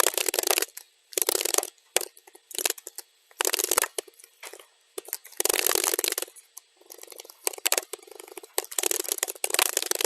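Computer keyboard typing, sped up to double speed, so the keystrokes run together into fast chattering runs. It comes in bursts separated by short pauses, with the longest, densest run near the end.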